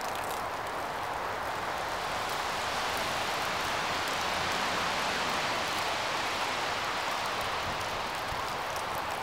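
Steady rolling noise of a long freight train's steel wheels on the rails as its last cars move away, an even hiss with faint ticks over it.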